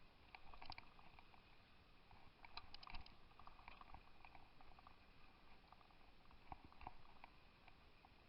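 Near silence with faint, irregular clicks and short rattles.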